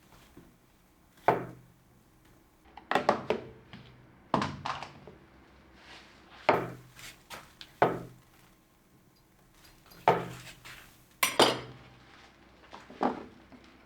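Kitchenware knocking and clinking as it is handled and set down: about eight separate clatters, irregularly spaced a second or two apart, each with a short ring.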